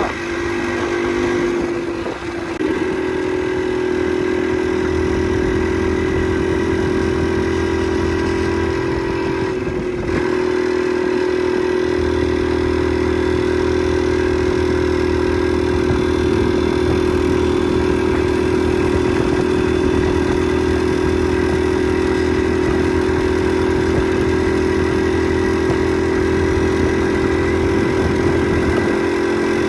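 Motorcycle engine running steadily while under way. The sound drops briefly about two seconds in and again about ten seconds in, then holds steady.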